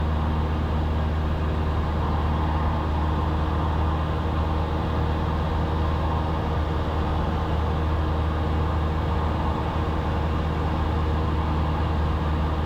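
Cessna 172's piston engine and propeller droning steadily in flight, heard from inside the cockpit: an even low hum with no change in pitch or level.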